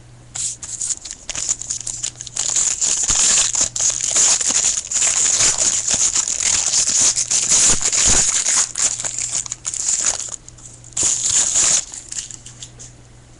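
Foil wrapper of a baseball card pack being crinkled and opened by hand: a dense, irregular crackling that tails off in the last couple of seconds.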